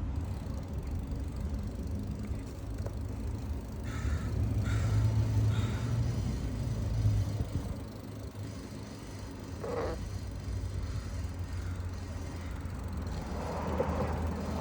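Steady low rumble of wind and road noise from riding an e-bike, a little louder about four to seven seconds in, with a few short higher sounds in that stretch.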